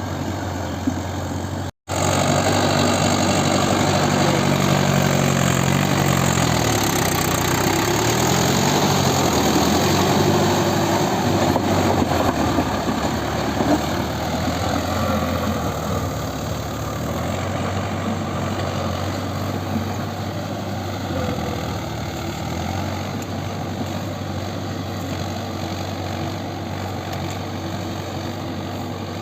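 Mahindra Yuvo 575 4WD tractor's diesel engine running, its pitch dipping and rising a few seconds in as the engine speed changes, then settling into a steadier, slightly quieter run. There is a brief cut to silence just under two seconds in.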